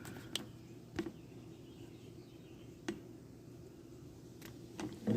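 A few scattered light clicks and ticks over a faint low hum, with a louder knock right at the end.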